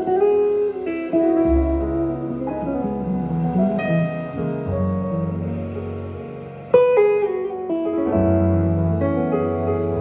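Small-group jazz played back over hi-fi loudspeakers and picked up in the listening room: guitar picking a melody over piano and bass, with sharp plucked note attacks about a second in and near seven seconds.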